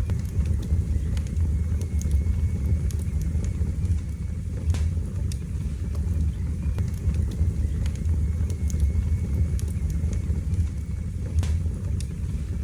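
Wood fire burning in a fireplace: a steady low roar of flames with scattered sharp crackles and pops, two louder pops about five and eleven seconds in.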